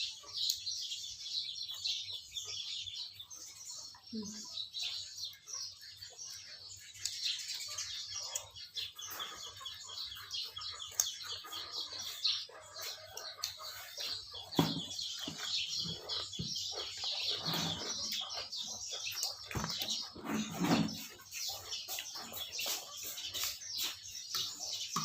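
Many small birds chirping and twittering continuously, with a few faint low knocks and sounds in the second half.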